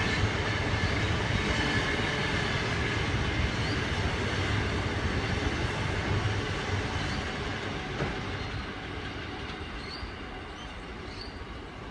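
Freight train wagons rolling past on the rails with a steady rumble, fading away over the last few seconds as the train draws off.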